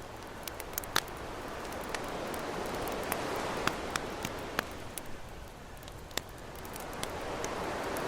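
Campfire crackling with scattered sharp pops over ocean waves washing in and out: one wave swells and fades over the first six seconds, and the next builds near the end.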